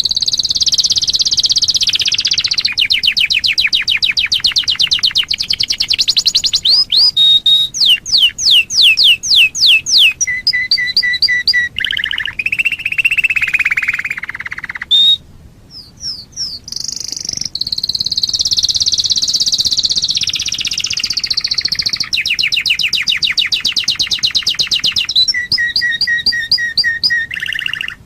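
Domestic canary singing a long, varied song of fast trills and rolls of rapidly repeated notes, with runs of sweeping whistled notes. The song breaks off briefly about halfway through, then resumes.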